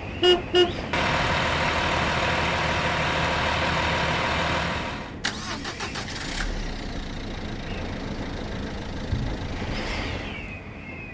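Added vehicle sound effects: a horn beeps twice, then an engine starts and runs loudly for about four seconds before cutting off suddenly. After that comes a quieter engine rumble.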